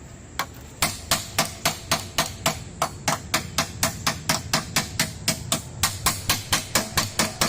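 Repeated hammer blows in a steady rhythm, about three to four a second, after a single first knock.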